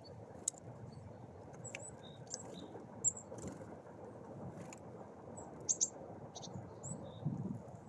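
Small birds at a feeder giving short, high chirps and calls, scattered through with a few sharp clicks, over a faint low rumble.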